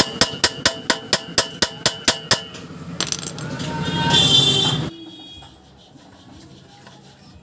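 A hammer strikes metal in quick, even blows, about four a second, each with a metallic ring, knocking rust and carbon off the weighing machine's load-cell fitting. The blows stop about two and a half seconds in. A louder noisy sound then swells for about two seconds and cuts off suddenly.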